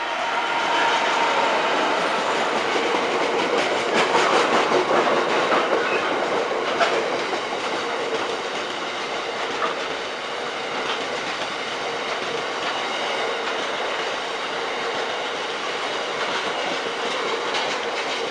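Freight train passing at speed: a Class 66 diesel locomotive and a long rake of tank wagons, wheels clattering over rail joints with a steady rumble, loudest about four seconds in.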